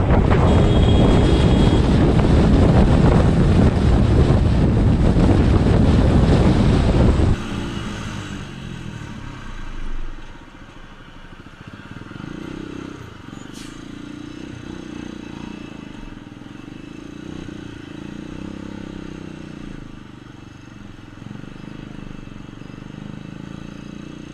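Vehicle driving noise: loud rushing wind and road noise for about seven seconds, then it cuts off suddenly and a quieter, steady engine hum carries on.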